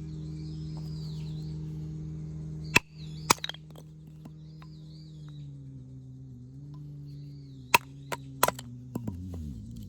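Several sharp knocks, about two near three seconds in and a quick cluster near eight seconds, over a steady low hum that drops in pitch and fades out near the end. Faint bird chirps sound in between.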